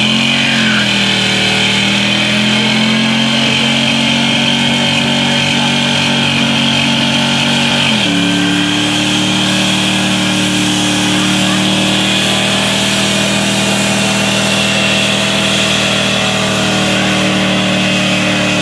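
Vehicle engine held at high, steady revs for a long stretch. The pitch dips and comes back up about a second in, then settles slightly lower about eight seconds in.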